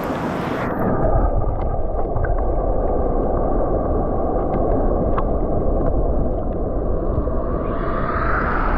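Rushing water of a mountain stream. Under a second in it turns suddenly muffled and heavy, as heard with the microphone underwater, with a few faint clicks in the low, dull rush.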